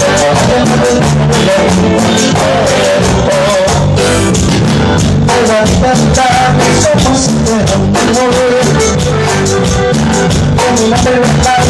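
Loud Latin tropical band music with a steady, busy beat and a wavering melody line over it, probably a lead voice singing.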